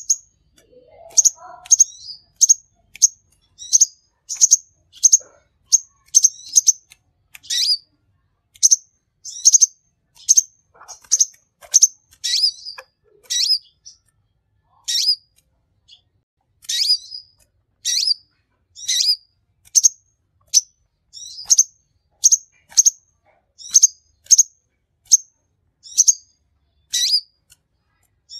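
Kolibri konin sunbird calling steadily: a long series of short, high, sharp chirps, a little more than one a second.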